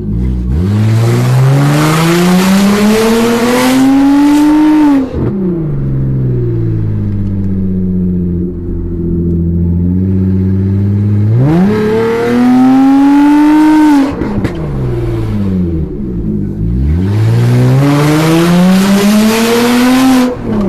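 VW Passat B5 2.8 V6 running with no exhaust fitted, so its sound is raw and unmuffled. It revs up three times: a long climb that cuts off about five seconds in and sinks slowly back to a low steady note, a quicker climb around the middle, and another climb that drops off near the end.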